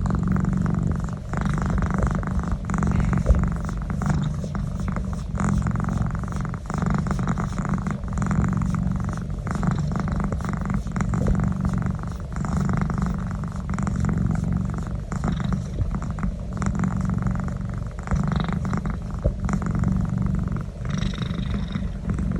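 A domestic cat purring loudly and without a break while having its neck rubbed, the purr swelling and easing every couple of seconds.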